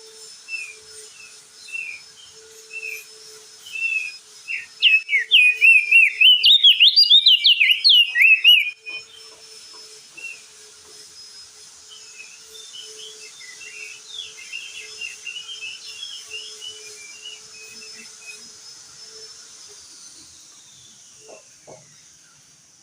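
Crested white-eye (opior jambul) singing. Short separate chirps come first, then about five seconds in a loud, rapid warbling song starts and cuts off suddenly near nine seconds, followed by softer chattering notes. A steady high hiss runs underneath throughout.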